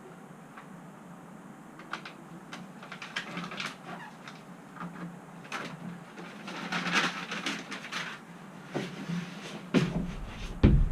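Handling noises inside an empty metal van: scattered clicks and knocks with a stretch of scraping and rustling about two-thirds of the way through, then two louder knocks near the end.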